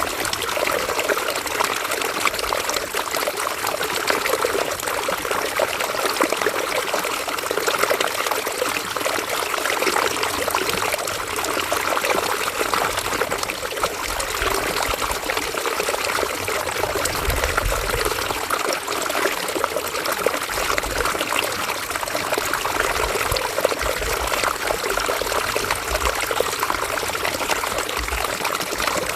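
River water running and trickling steadily over stones, with low rumbles coming and going now and then.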